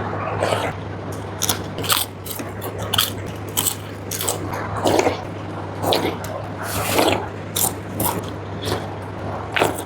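Close-up crunching and chewing of crisp food such as papad, in irregular crackly bites about every half second to a second, over a steady low hum.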